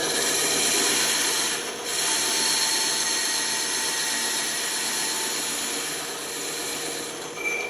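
Bandsaw running and cutting wood: a steady, hissing machine noise that dips briefly about two seconds in, then carries on.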